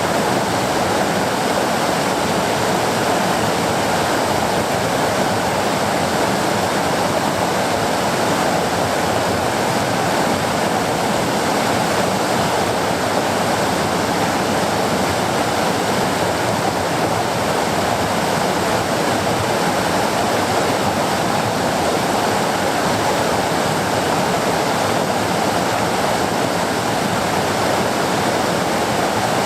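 River rapids rushing: a loud, steady roar of whitewater.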